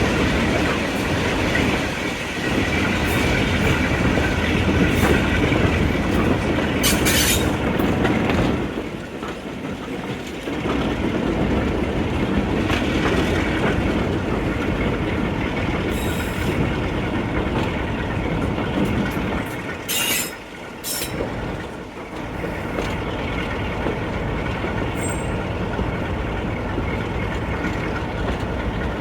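Train running along the line: a steady rumble and rattle of wheels on the rails, with a few short high squeals, easing off briefly twice.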